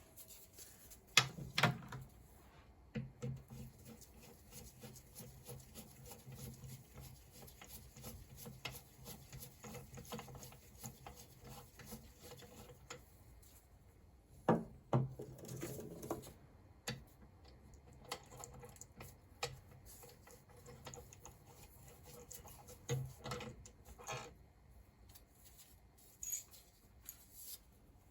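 Bolts being handled and fitted into a BMW R1200 engine case: scattered light metal clicks and taps, with a few louder knocks now and then.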